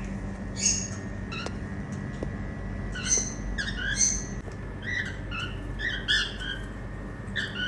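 Indian ringneck parakeets giving a string of short, shrill squawks and chirps, one every half second to a second.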